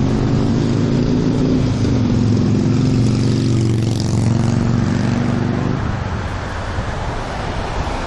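Motorcycle engine running under way, a steady droning note that steps down slightly about two seconds in and fades out near six seconds, leaving a rushing noise.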